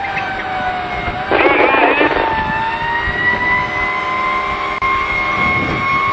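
Fire truck siren sounding a slow wail: its pitch sinks a little, rises and holds, then starts to fall near the end. About a second in, a louder burst of fast warbling tone cuts in briefly.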